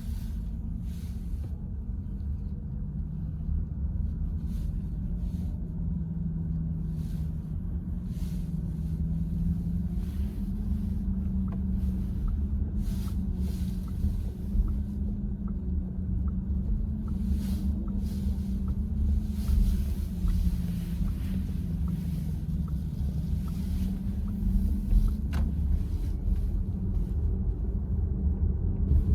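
Road and tyre noise inside the cabin of a VW ID.4 electric car on the move: a steady low rumble. A faint, evenly spaced ticking runs through the middle stretch.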